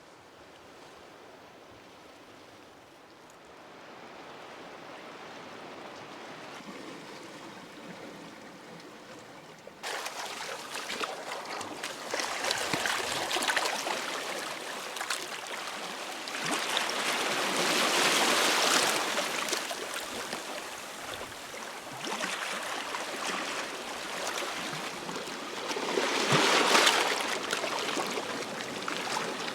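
Sea waves breaking and washing over a stony shingle beach, the surf swelling and falling back, with the pebbles clicking in the wash. It is faint for the first third, then suddenly louder, with two bigger surges, one near the middle and one near the end.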